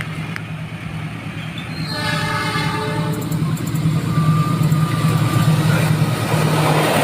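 Diesel locomotive of a freight train approaching, its engine running with a steady low hum and growing louder. About two seconds in, the locomotive horn sounds for about a second, followed by a thin steady higher tone for a couple of seconds.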